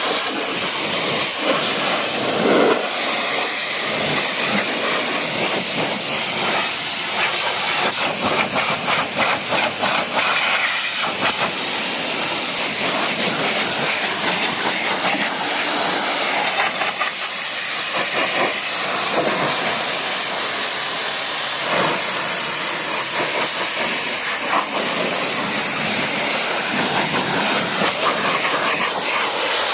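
High-pressure washer jet spraying water onto a truck, a steady loud hiss.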